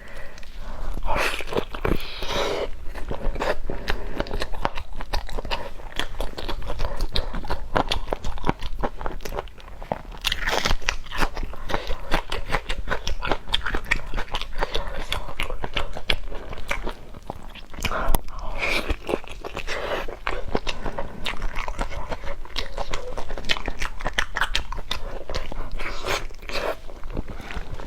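A person eating, biting and chewing with dense, continuous crunching made of many crisp clicks throughout.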